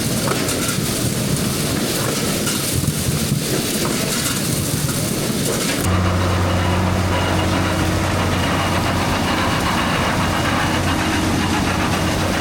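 Farm tractor engine running with field machinery, a loud steady mechanical noise. About six seconds in the sound changes abruptly to a steadier engine drone with a low hum.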